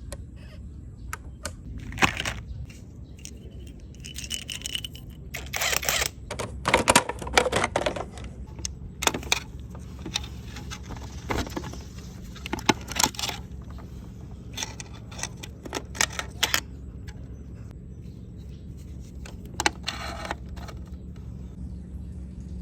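Honda Wave 100 engine idling low and steady, with scattered sharp clicks and short metallic rattles over it.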